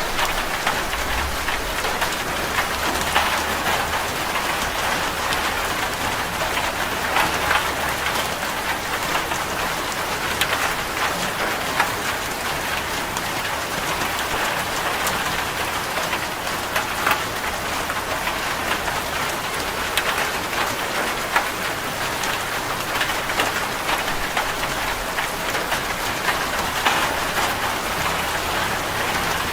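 Steady heavy rain falling on a corrugated zinc roof: a dense, even patter with many sharp ticks of single drops striking the metal.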